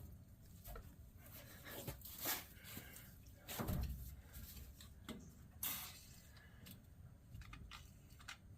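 Faint scattered knocks, clicks and rustles from handling tools and parts, the loudest a few short knocks about two, four and five and a half seconds in.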